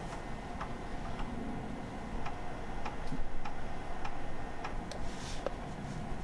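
A series of light, irregular clicks and ticks over a steady low background noise.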